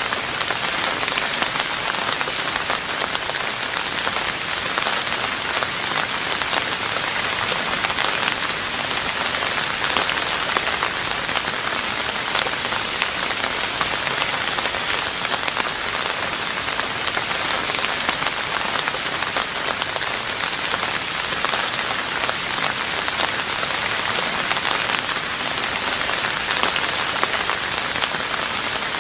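Steady rain falling on a roof: a dense, even patter of drops.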